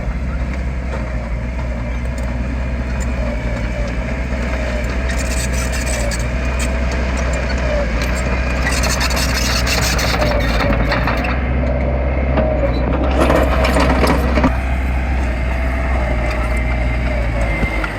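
Heavy earthmoving machinery's diesel engine running steadily with a wavering whine over it, broken by several stretches of rattling and scraping.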